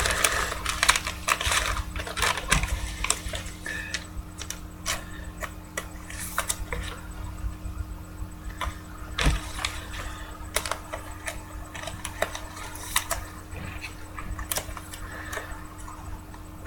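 Trading cards being handled and sorted: scattered light clicks and taps of cards and card holders, over a steady low electrical hum.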